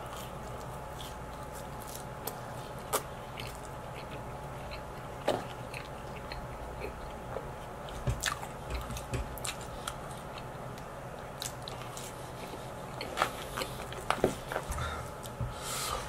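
A person biting into and chewing pizza, with irregular sharp crunches that come thickest near the end, over a faint steady hum.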